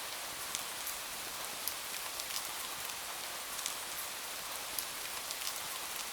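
Steady rain with a crackling wood fire: an even hiss broken by scattered sharp crackles.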